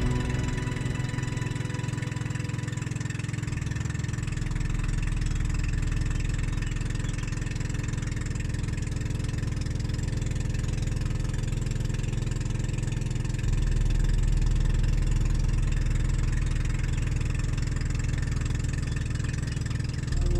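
Motorized boat engine running steadily, a low drone that shifts a little about four seconds in and gets louder about two-thirds of the way through.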